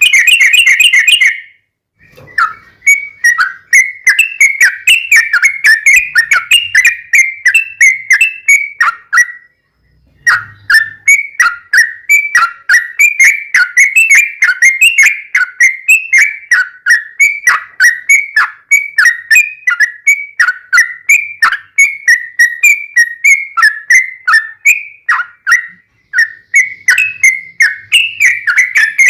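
Yellow-vented bulbul (trucukan) singing a long, fast run of short chattering notes, about four or five a second, breaking off briefly about a second and a half in and again near ten seconds.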